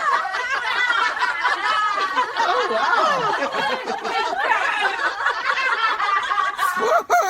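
Several people laughing hard together, overlapping giggles and snickers, cutting off suddenly near the end.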